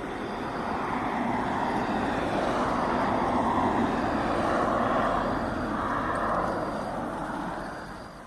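A vehicle passing on the road: its engine and tyre noise swells over the first second or so, holds, then fades away near the end.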